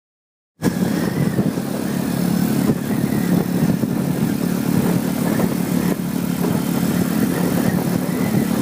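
Motorcycle engine running steadily, starting abruptly about half a second in.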